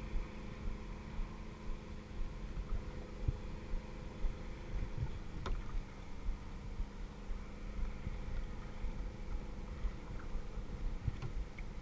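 Steady engine-like drone with several held tones, as of a motorboat out on the lake, over an uneven low rumble of water and wind against the kayak and camera housing. A sharp click about five and a half seconds in, and a few small ticks near the end.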